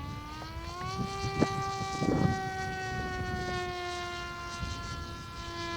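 Electric motor and pusher propeller of a TBS Capi FPV flying wing buzzing in flight overhead. Its pitch rises through the first second as the throttle opens, then holds almost steady and drifts slightly lower. Wind rumbles on the microphone throughout, with a sharp click about a second and a half in.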